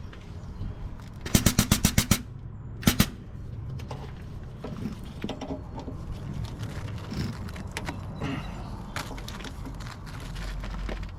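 Grease gun pumping grease into a tow truck's grease fittings: a quick burst of rapid clatter, about ten strokes a second, a little over a second in, a sharp knock around three seconds, and another rapid burst right at the end, with quieter handling noise between.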